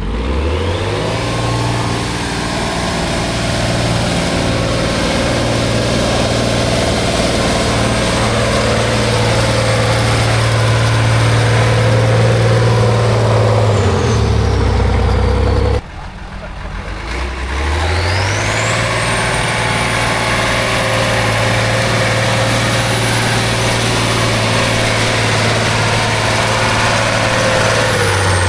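Heavy trial truck's diesel engine revving up and held at steady high revs under load, then dropping back. After an abrupt cut about halfway, it revs up and holds high again, with a faint high whistle that rises and falls above it.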